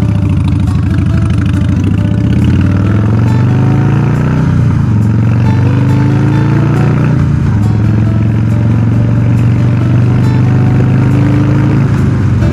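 2002 Harley-Davidson Softail Springer's Twin Cam V-twin running through Vance & Hines Big Shot Staggered pipes, accelerating under way. The engine note climbs, drops at an upshift about four and a half seconds in, climbs again, drops at a second shift about seven seconds in, then settles to a steady cruise.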